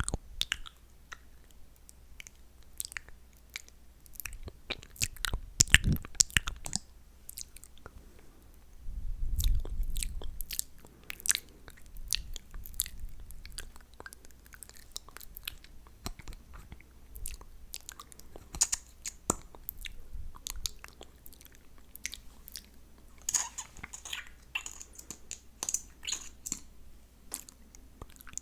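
Close-miked ASMR mouth sounds of sticky lip gloss on the lips: irregular wet clicks, smacks and chewing noises. There is a low rumble about nine seconds in and a busier run of clicks near the end.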